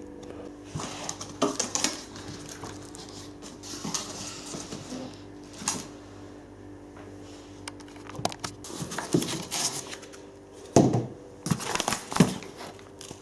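Packaging being handled and unpacked: irregular rustling, crinkling and light knocks, with louder handling knocks near the end, over a steady low background hum.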